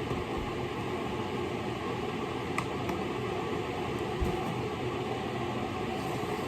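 A steady machine hum with a whirring noise, like a running fan, with a faint tick about two and a half seconds in and a soft low knock a little past four seconds.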